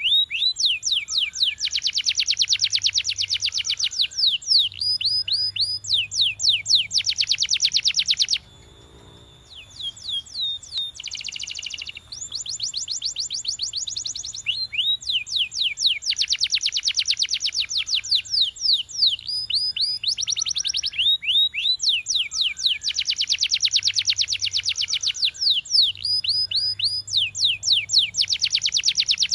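Domestic canary singing: fast trills of rapidly repeated down-slurred whistled notes in runs of one to two seconds. The song drops off about eight seconds in and picks up again a few seconds later.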